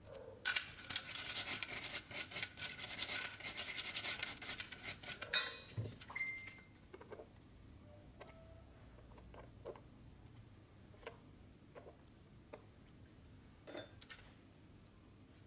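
A small gasoline-engine carburetor being scrubbed during cleaning: a fast, dense run of scratchy strokes for about five seconds, then a few light clicks and taps of small parts being handled.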